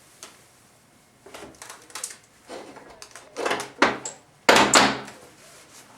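Handling noises as a small transmission part is set into a parts tray: a string of short scrapes and knocks, the loudest and longest about four and a half seconds in.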